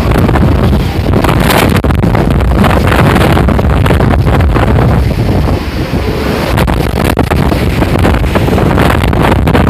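Typhoon-force wind gusting hard and buffeting the microphone, a loud unbroken rush with rapid irregular flutters.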